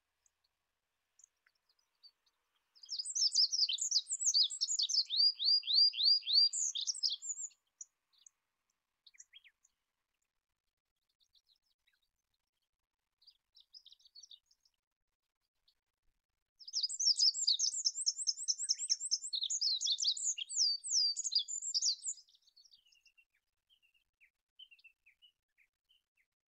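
Olive-backed pipit singing: two high, rapid trilled song phrases of about five seconds each, one a few seconds in and one past the middle, with a few faint short notes between them.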